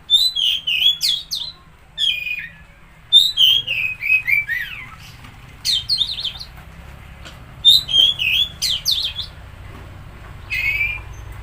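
Oriental magpie-robin (kacer) song: about six loud phrases of quick whistled notes, many sliding down in pitch and mixed with short harsh notes, with brief pauses between them.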